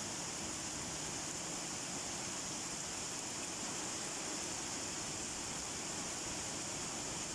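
Rain falling steadily as an even, unbroken hiss, with no single drops standing out.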